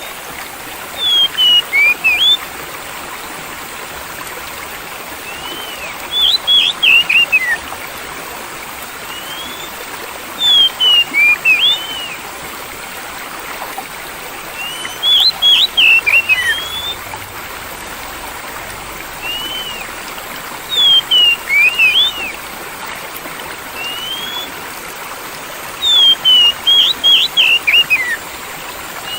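Steady rushing of flowing water, with a songbird breaking in about every five seconds. Each time it gives a quick phrase of four or five sliding whistled notes, about a second and a half long, louder than the water.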